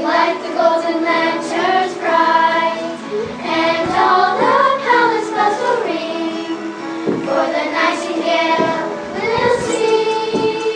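A group of children singing a song together in unison over musical accompaniment.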